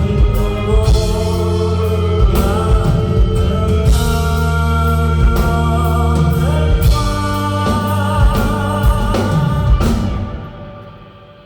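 Rock band playing an instrumental passage live, with drum kit hits, bass, guitars and a wavering melody line on top. About ten seconds in the band stops abruptly, leaving only a faint sustained chord.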